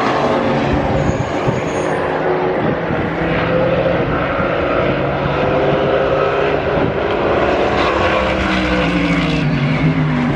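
GT race car engines running hard, several engine notes overlapping, with one falling in pitch near the end.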